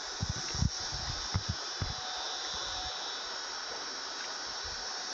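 Steady rushing of flowing river water, with a few short low thumps in the first two seconds.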